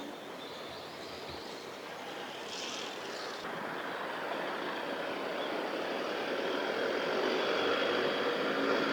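Steady engine noise of an approaching vehicle, growing gradually louder.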